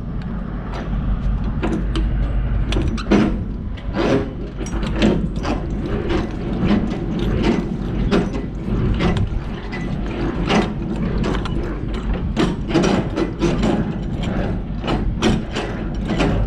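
Irregular metallic clicks and clanks of hands-on work on a semi-trailer's hardware, over a low steady hum.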